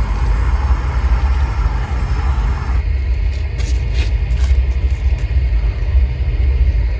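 Propane roofing torch burning, a steady low roar.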